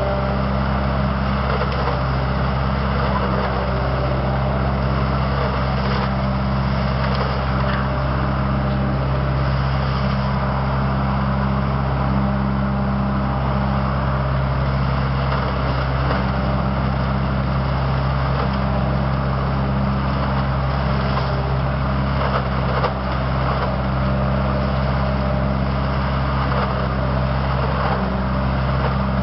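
Truck-mounted leaf collector (ODB SCL800) running steadily, its engine and vacuum fan giving a constant drone with a deep hum underneath.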